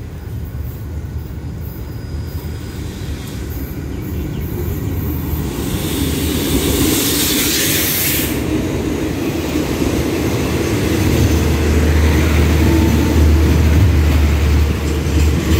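An express train's diesel locomotive coming into the station and rolling past, with a rushing hiss as it goes by about six to eight seconds in. Its passenger coaches follow with a deep, growing rumble of wheels on rail as the train slows to stop.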